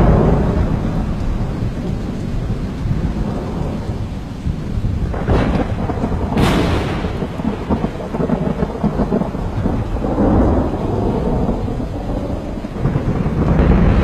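Thunder rolling in a continuous low rumble, with two sharp cracks about five and six and a half seconds in and the rumble swelling again near the end.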